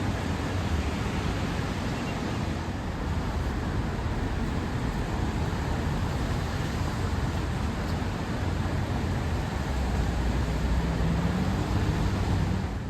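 Steady rumble of city traffic and street noise, a little louder near the end.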